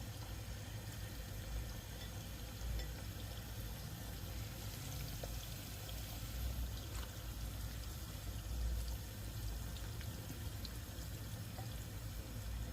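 Tomato and pepper sauce frying in palm oil in a pot, a steady soft sizzle with a few faint ticks.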